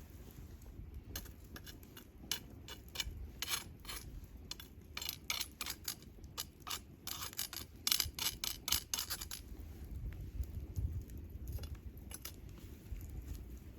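Wood campfire crackling and popping: a quick run of sharp snaps for most of the first ten seconds, thinning out near the end, over a low steady rumble of the burning fire.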